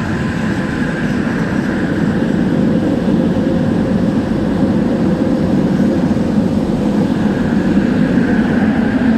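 Kelana Jaya Line LRT train car running, a steady rumble that builds a little over the first two seconds. Mixed in is the car's fan making an odd drone, called a weird fan sound.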